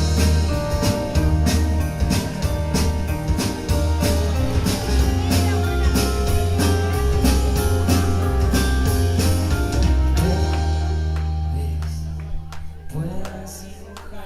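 Live band playing an instrumental passage, with drums, cymbals, a heavy bass line and guitar. About ten seconds in the drumming stops and a held chord over a low bass note rings out and fades.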